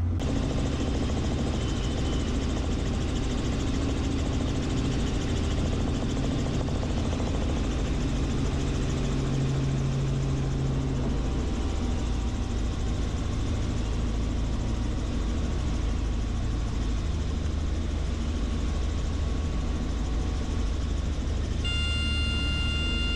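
Helicopter rotor and engine noise, steady throughout, with a low hum that shifts pitch about halfway through. Near the end a steady high-pitched tone sounds.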